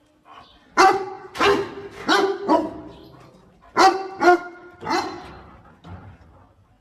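A dog barking in two runs: four loud barks, a pause of about a second, then three more, with a fainter bark near the end.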